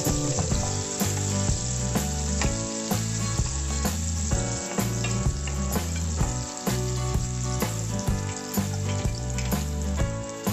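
Sliced shallots and garlic sizzling in hot oil in a non-stick wok, stirred with a wooden spatula that gives light scraping clicks. Background music with a steady bass line plays throughout.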